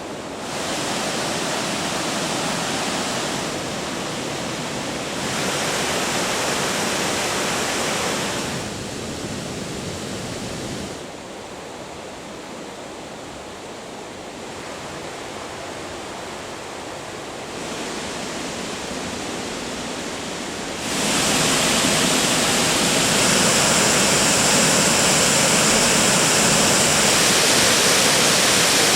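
Rushing water of waterfalls and a mountain stream: a steady, even noise that jumps up or down in level abruptly several times, and is loudest over the last third.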